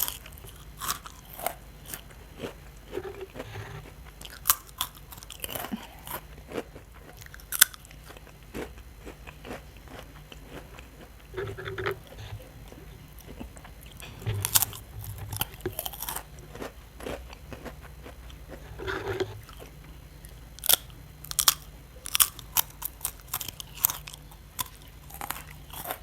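Close-up biting and chewing of a crunchy Cornetto ice cream cone: sharp, crisp cracks come in irregular clusters, with softer chewing between them.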